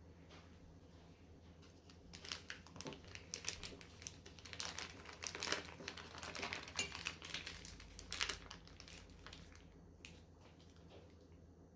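Rapid, irregular crinkling and light clicking while something is handled, for about seven seconds starting about two seconds in and fading out near the end.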